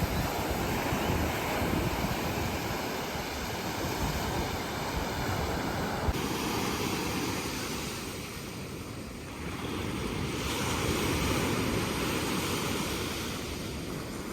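Gulf of Mexico surf breaking and washing up a sandy beach, with a steady wash that swells and ebbs, and wind buffeting the microphone.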